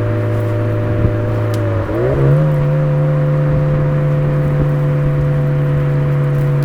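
Suzuki Swift Sport (ZC33S) 1.4-litre turbo four-cylinder engine and Fujitsubo aftermarket exhaust, running at a steady drone. About two seconds in, the pitch dips briefly and then jumps up to a higher steady note, like a downshift on the descent.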